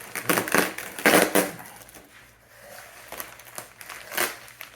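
Packaging rustling and crinkling as parts are handled and pulled out of a box, in irregular bursts. The bursts are loudest over the first second and a half, and there is another near the end.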